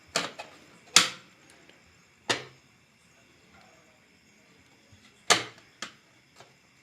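Plastic snap-on cover of a press-type switch plate being pried off with a tester screwdriver: about five sharp snaps with pauses between them as its clips let go, the loudest about a second in. The snapping is normal and does not mean the plate has broken.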